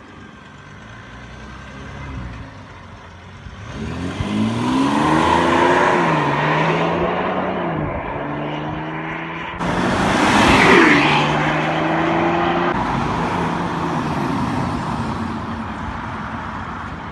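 Mercedes E350 CDI's V6 diesel running through a muffler-delete stainless exhaust with quad tips. It accelerates from about four seconds in, its pitch climbing and dropping in steps through the gears. The sound turns suddenly louder about ten seconds in and then settles to a steadier drone.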